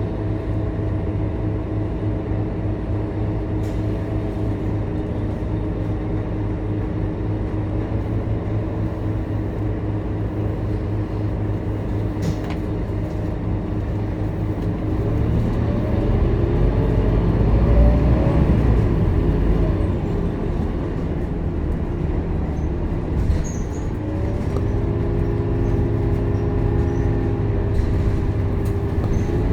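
Scania K230UB city bus's diesel engine heard from on board, running steadily. About halfway through the engine note climbs and falls away again as the bus speeds up, then it settles back to a steady drone with a higher hum near the end. There are a few light rattles.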